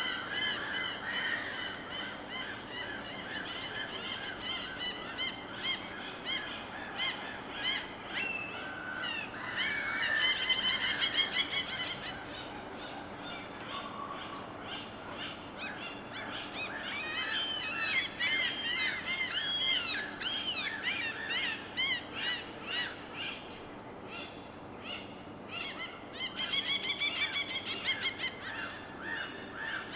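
Birds calling over and over against a steady low background hiss. Quick runs of short calls come near the start, around ten seconds in and near the end, with slower rising-and-falling calls in between.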